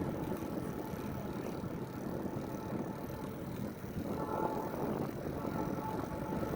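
Steady rolling rumble of a bike ridden on a cement path, tyres on the pavement mixed with wind on the microphone.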